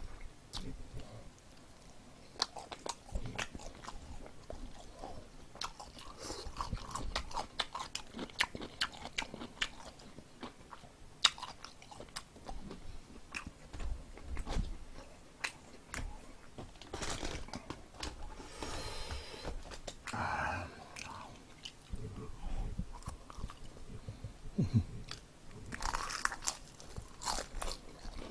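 Close-up eating sounds: crisp fried chicken batter crunching between the teeth, with bites and chewing coming irregularly.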